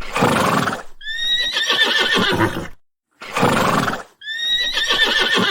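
Horse neighing twice. Each whinny opens with a breathy rush and then becomes a high, quavering call that slowly falls.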